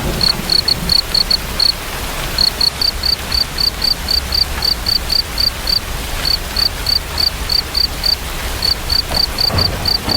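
A cricket chirping steadily in short, high pulses, about three a second, with a brief pause about two seconds in. Under it runs an even hiss of rain.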